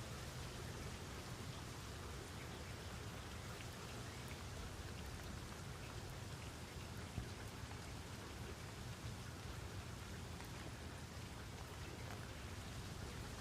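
Steady rain falling, with scattered drops ticking on a surface and one sharper drop about seven seconds in.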